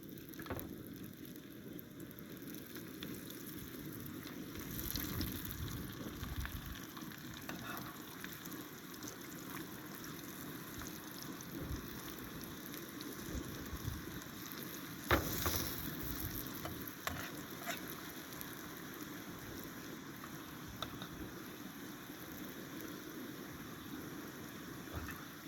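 Food sizzling and frying in a pan, with a steady crackling hiss. Scattered clicks and knocks of a stirring utensil come through, the sharpest about fifteen seconds in.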